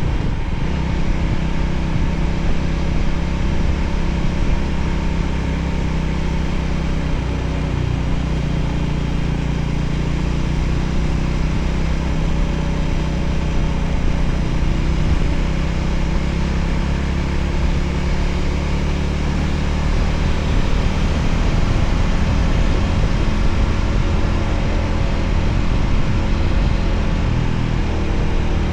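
Voge 300ACX motorcycle engine running steadily on the move, with an even rush of noise over it.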